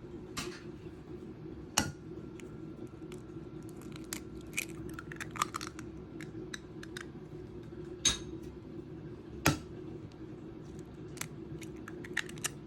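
Scattered light clicks and knocks of kitchenware being handled, with three sharper knocks, over a steady low hum.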